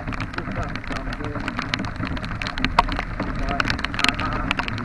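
Rain, with many sharp drops ticking close by, over the steady low rumble of a moving vehicle.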